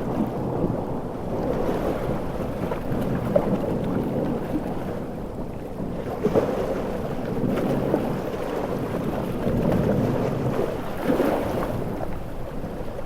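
Large ocean waves surging under heavy rain and wind, a dense low rushing noise that swells and eases slowly, with a few brief sharp splashes.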